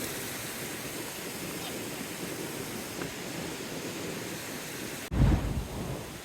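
Mountain stream water rushing steadily over rocks where two streams meet. A little after five seconds in the sound breaks off and a brief loud low rumble, like wind or handling on the microphone, takes over.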